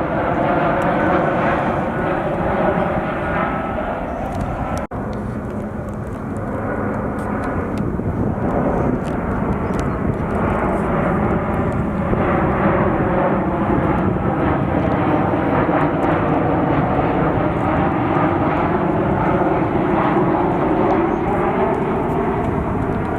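Jet airliner engines running loud and steady, a roar with a whine that drifts slightly in pitch. The sound drops out abruptly for an instant about five seconds in, at a cut, then carries on.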